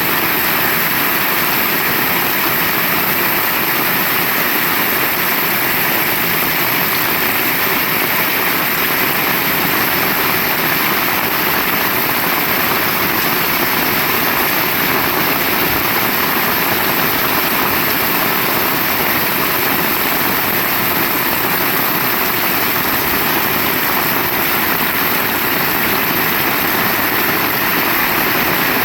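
Heavy rain falling hard, a loud, even hiss that runs on without a break.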